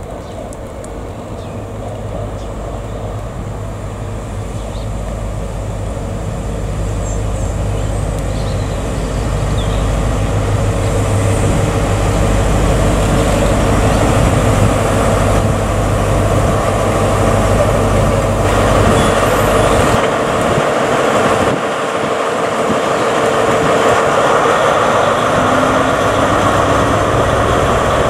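GWR Class 43 HST power car with an MTU diesel engine arriving along the platform. Its low engine hum grows louder as it approaches, then gives way about two-thirds of the way in to a louder rush of wheels on rail as the power car passes close, with a faint rising tone near the end.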